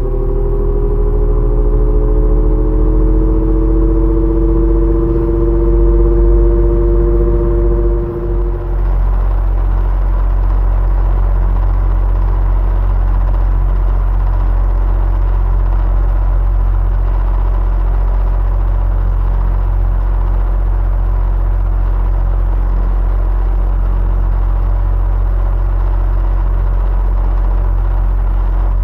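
Electric fan running with a low hum and a steady whoosh of air. For the first eight seconds a motor whine rises slowly in pitch and levels off, then it drops away after a brief dip in loudness, leaving an even, unchanging fan noise.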